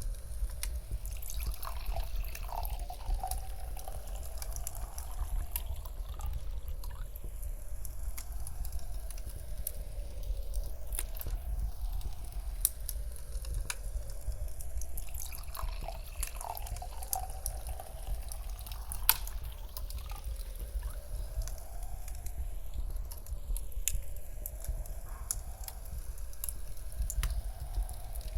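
Layered ambient mix of a crackling fireplace, with scattered sharp pops over a steady low wind rumble, and wine being poured into a glass. The mix is swept around in a rotating 8D effect.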